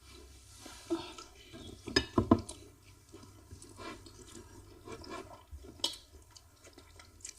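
Eating at a table: scattered soft clicks and knocks of dishes and utensils, with a louder cluster of knocks about two seconds in and a sharp click near the end.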